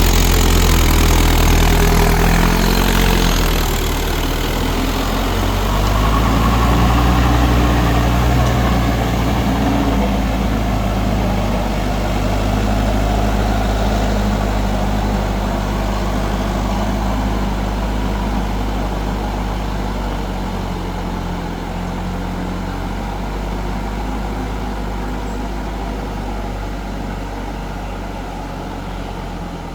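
Mahindra 4WD DI tractor's diesel engine running, its note shifting a few times in the first ten seconds, then slowly growing fainter.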